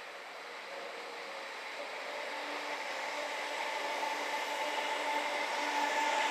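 Greater Anglia Class 321 electric multiple-unit train running past, its rail and running noise growing steadily louder, with a steady high whine over it.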